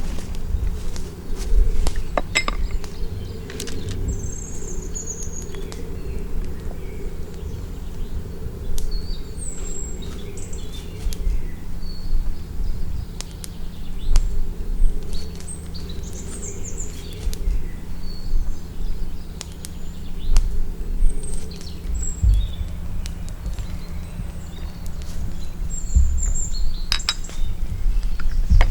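Birds chirping with short, scattered calls over a steady low rumble, with a few sharp clicks near the start and again near the end.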